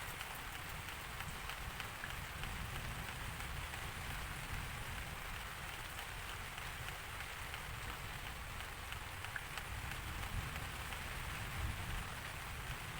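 Steady rain falling on a surface: a continuous even hiss with scattered drop ticks.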